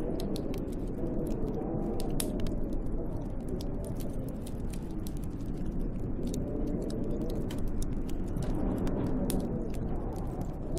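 Wood fire crackling in a fireplace with many small, sharp pops, over snowstorm wind that rises and falls in gusts, swelling about a second in and again near the end.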